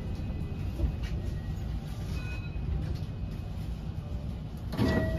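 Inside a JR West 223 series 2000-subseries electric multiple-unit car with a Hitachi IGBT inverter, coming to a stop at a station: a steady low rumble with faint short whines from the underfloor equipment. Near the end a louder rush of noise sets in.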